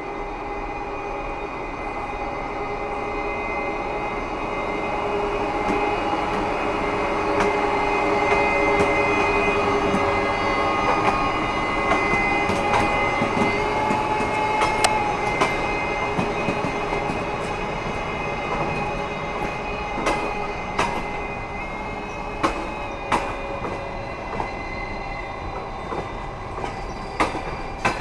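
Railway train rolling past at low speed, its wheels squealing with several held tones. The sound swells to a peak about halfway through, and sharp wheel knocks over rail joints and points grow more frequent near the end.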